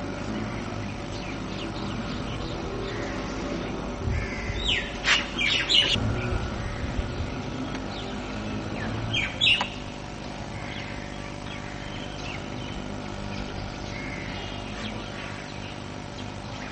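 Birds chirping: a quick cluster of short, high chirps about five seconds in and another pair near nine and a half seconds, over a steady low hum.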